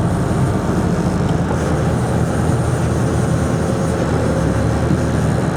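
A boat's inboard engine running steadily at cruising speed, a continuous low drone.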